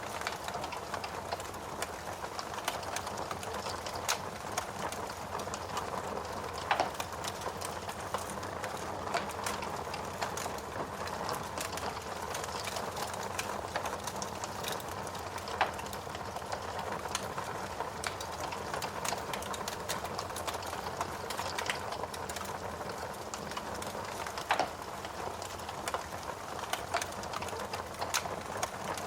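Wood fire burning in a fireplace: a steady hiss with frequent small crackles and a few louder pops spread through.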